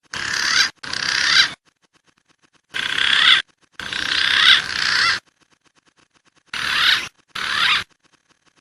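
Recorded wild pigeon calls played as a bird-trapping lure: three pairs of short warbling, whistled calls, each burst cut off sharply.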